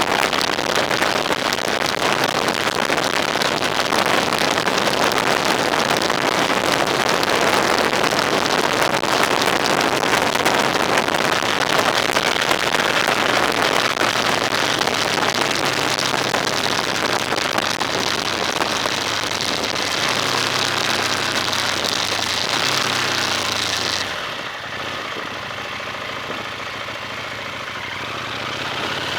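Road vehicle driving: steady rushing tyre and wind noise with a low engine hum that shifts in pitch. About 24 s in, the rushing noise drops away sharply and the engine is left running quietly as the vehicle slows, as if to idle.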